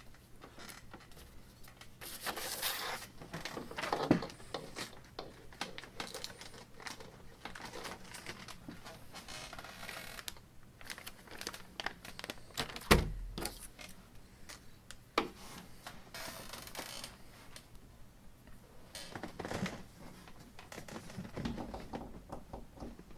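Handling noises from hands moving things about: rustling and crinkling with scattered light clicks and knocks, and one sharp knock about halfway through.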